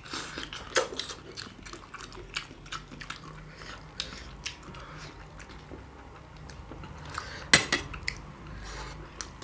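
Close-miked chewing and biting into a large chicken momo eaten by hand, with wet mouth noises and scattered lip smacks and clicks. One sharp smack about seven and a half seconds in is the loudest.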